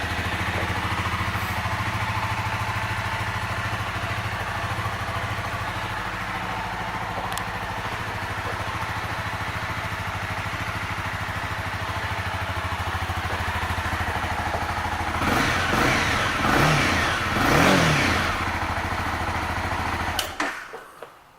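2018 Honda CBR300R's single-cylinder engine idling steadily, then revved in three short blips and settling back to idle before it is switched off just before the end.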